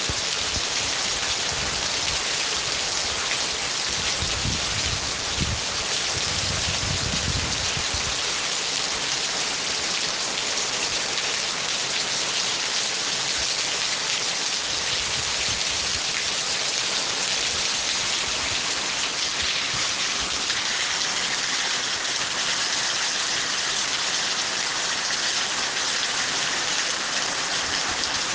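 Steady rain falling, with a low rumble about four to eight seconds in.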